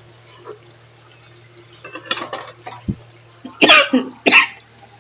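A person coughing twice, loudly, in the second half, with a few lighter kitchen knocks and a low thud before it, over a steady low hum.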